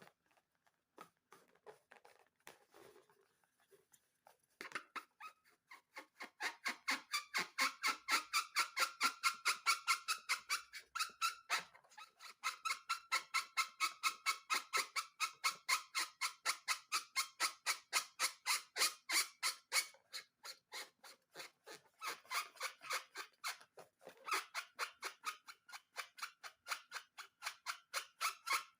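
Slime being squeezed and worked by hand in a quick steady rhythm, about three to four wet squelching clicks a second. It begins after a few quiet seconds and keeps up with small pauses.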